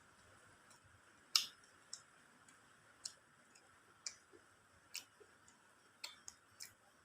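Eating sounds from someone eating chicken biryani: sharp, irregular clicks and smacks, about one a second, over a faint steady hiss.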